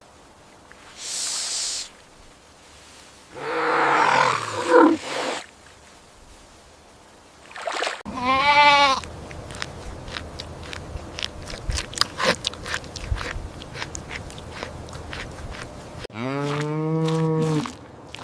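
A run of different animal calls cut one after another: a short hiss, then a rough growling call, then a pitched call about 8 s in, followed by scattered clicks and crackles, and a long low call near the end.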